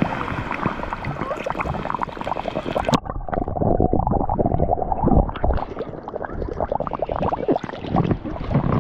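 Air gurgling and bubbling out of an inflatable float being deflated in the water, with a busy stream of small pops. About three seconds in the sound turns suddenly muffled, losing all its high end.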